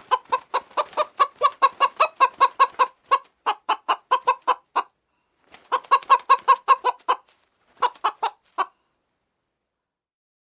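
Chicken clucking in quick, even runs of about five clucks a second, with two short breaks, then falling silent well before the end.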